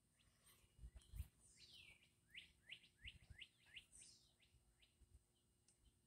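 Faint bird chirping: a falling call, then a quick run of about five short chirps, and another falling call about four seconds in. A few soft low thumps sound underneath.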